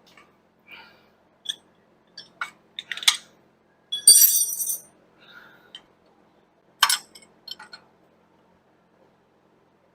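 Metal hand tools, wrenches and sockets, clinking and rattling as they are handled, with a loud ringing clatter about four seconds in and a sharp clink near seven seconds.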